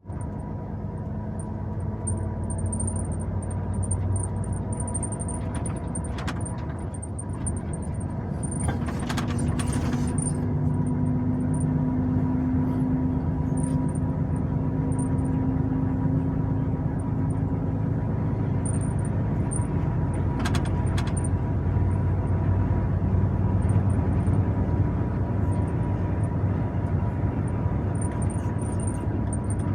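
Truck engine running steadily on the move, its note shifting a little, with a few short knocks scattered through.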